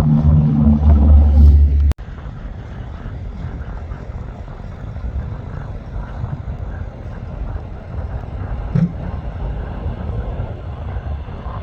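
A loud, low engine sound cuts off abruptly about two seconds in. A much quieter, steady low rumble follows, with a single faint click near the end.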